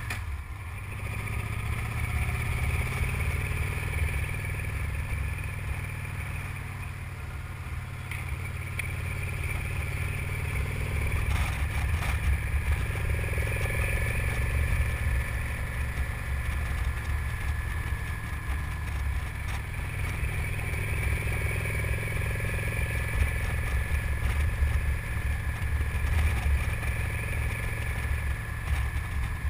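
Victory Cross Country Tourer's V-twin engine running under load on a steep climb, heard from a helmet-mounted camera. The engine note swells and eases with the throttle.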